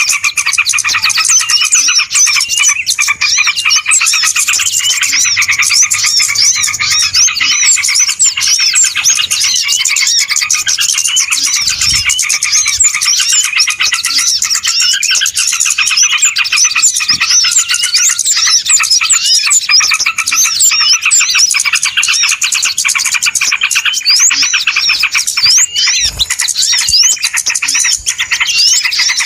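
A crowd of small birds chirping and chattering all at once, a dense unbroken din of quick high calls, as used in a bird-lure (pikat) recording.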